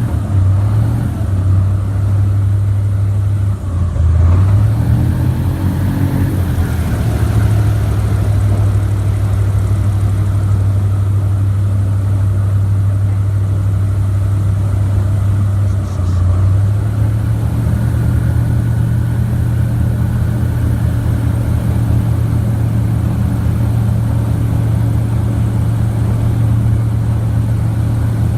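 Airboat engine and propeller running loud and steady, its pitch shifting about four seconds in and again around sixteen seconds.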